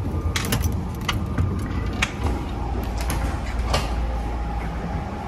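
Commuter train running, with a steady low rumble. Over it come several sharp metallic clicks and clanks as the sliding end door at the gangway between cars is opened and passed through.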